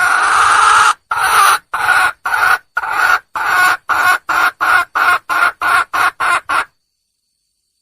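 Wild junglefowl hen calling for a mate: one long drawn-out call, then about a dozen short notes that come quicker and shorter before stopping abruptly.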